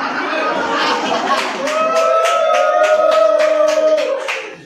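Live crowd reacting to a rap-battle punchline: cheering, then rhythmic clapping about four times a second under one long held shout, cutting off near the end.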